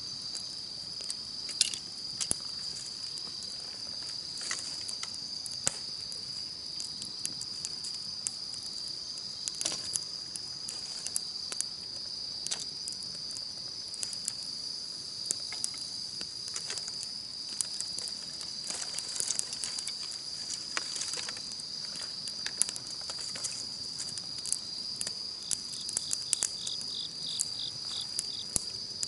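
Campfire crackling with scattered sharp pops, over a continuous high-pitched insect trill. Near the end, a short run of quick chirps joins in.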